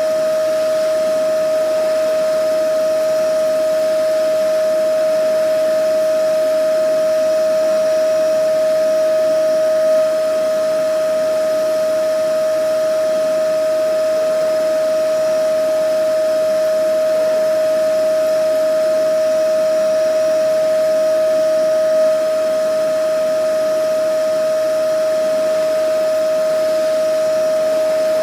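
Vacuum cleaner running steadily: a constant motor whine over the rushing hiss of air, with no change in speed.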